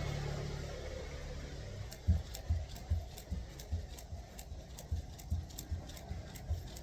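Jump rope skipping: the rope ticks on the ground with a soft landing thud on each turn, about two and a half times a second, starting about two seconds in. Before that, the hum of a passing vehicle fades away.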